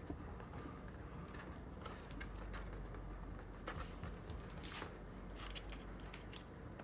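Faint rustling and about half a dozen scattered light clicks as a wire is pushed and fed through a hole in a plastic RC truck chassis, over a low steady hum.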